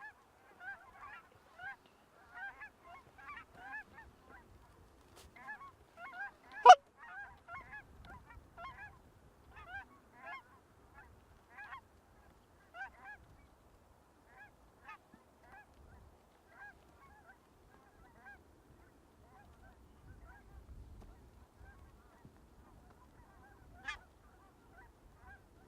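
Canada goose honks and clucks, many short calls close together for the first twelve seconds, then fewer and more spaced out. One sharp, much louder snap about seven seconds in, and a smaller one near the end.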